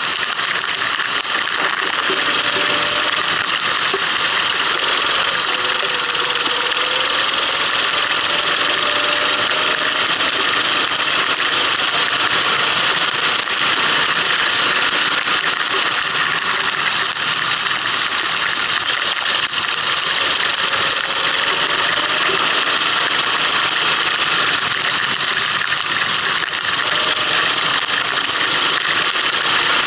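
Go-kart engine running at speed, its pitch slowly rising and falling through the corners, under a loud, steady rush of wind and rain-spray noise on the onboard camera.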